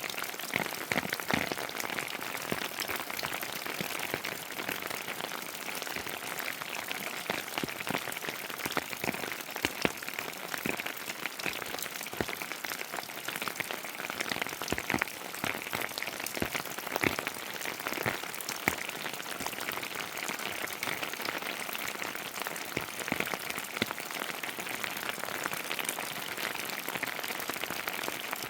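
Steady heavy rain: an even hiss with many sharp individual drop ticks throughout.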